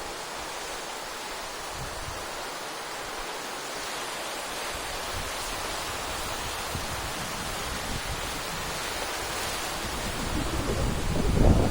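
Sea waves breaking and washing onto a rocky shore in a steady hiss of surf that swells slowly, with strong wind starting to buffet the microphone near the end.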